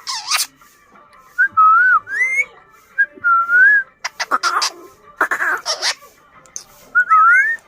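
Pet parrot whistling short rising-and-falling tones, broken by several harsh screeches.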